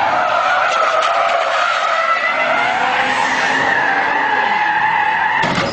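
Car tyres squealing in one long, wavering screech as a car skids, cutting off abruptly near the end.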